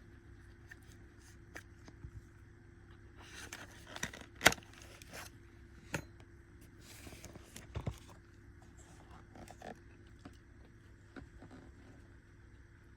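Handling of unboxed items and packaging: scattered light taps and clicks with two brief rustles, and one sharp click about four and a half seconds in.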